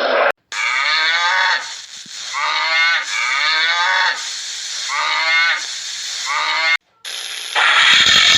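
Cow mooing: a run of drawn-out moos one after another, cutting off abruptly near the end, where a different, noisier sound takes over.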